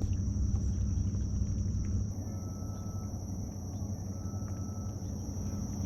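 Dawn marsh ambience: a steady high-pitched insect drone over a low rumble that eases about two seconds in, with two faint short whistled notes.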